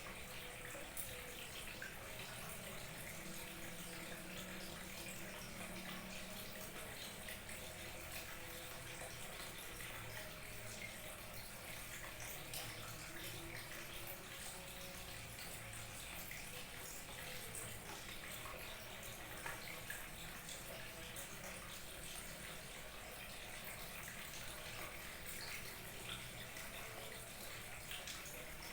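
Small waterfall trickling and splashing steadily, an even rush of falling water flecked with small splashes.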